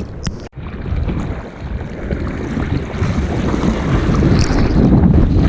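Water rushing and wind buffeting the microphone of a bodyboard-mounted GoPro. The noise cuts out sharply for an instant about half a second in, then builds steadily louder.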